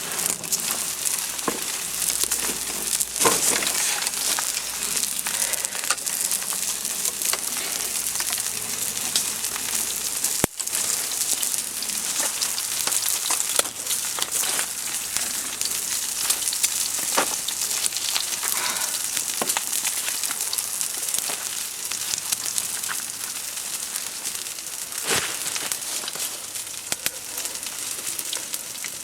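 Food sizzling in a pan over a campfire: a steady hiss with scattered pops and crackles.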